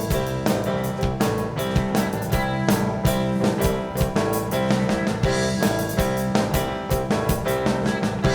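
Rock band playing an instrumental passage live, with drum kit keeping a steady beat under guitar and bass.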